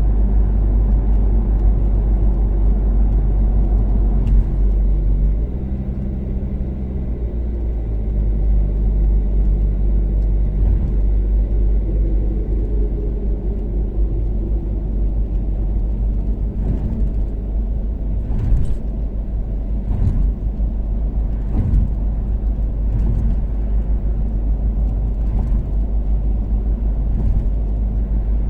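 Toyota Caldina's 3S-GTE turbocharged four-cylinder engine and tyre rumble, cruising steadily on an expressway. The engine note drops about five seconds in, and a few short knocks come in the second half.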